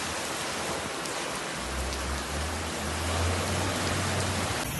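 Heavy rain falling, a steady hiss. A low rumble joins it about a second and a half in and stops shortly before the end.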